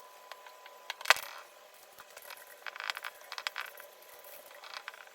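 A sharp tap about a second in, then scattered light clicks and clinks like small hard objects being handled.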